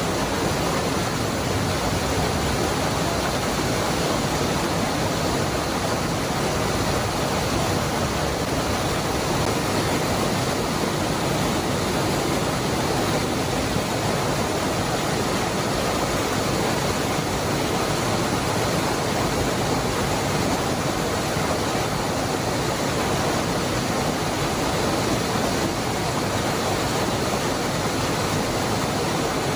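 The Cascada del Hervidero waterfall: a steady, unbroken rush of falling water.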